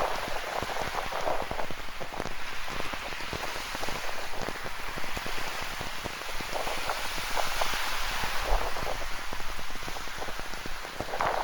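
Rain falling steadily, a dense run of small drop ticks striking a surface close by.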